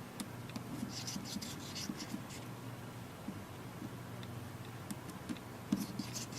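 Small Phillips screwdriver backing out tiny screws from a tablet's speaker housing, giving faint scratchy clicks and rubs in scattered clusters over a steady low hum.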